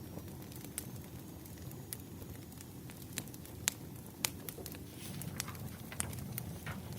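Wood fire crackling: irregular sharp pops and snaps of burning firewood over a low, steady rumble of the flames, with the two loudest pops near the middle.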